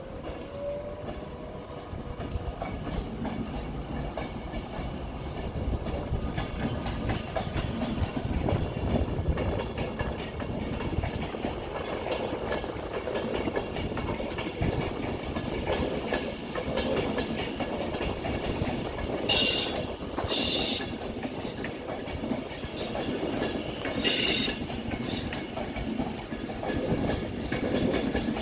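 Avanti West Coast Class 390 Pendolino electric train pulling out of the station, its running noise growing louder over the first several seconds. Several short, high wheel squeals come in the last third.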